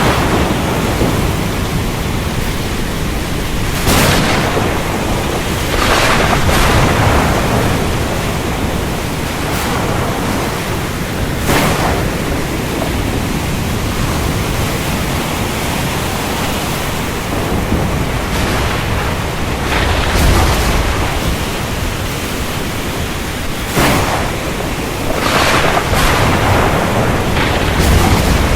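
Steady rain hiss of a thunderstorm, broken by about seven sudden thunder cracks spread through, with a deeper rumble about two-thirds of the way in.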